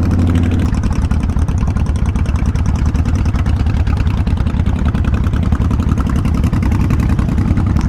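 Kawasaki Vulcan 1500 Classic's V-twin engine heard through a helmet-mounted microphone: a steady engine note that changes under a second in to a fast, pulsing running note as the bike rides on.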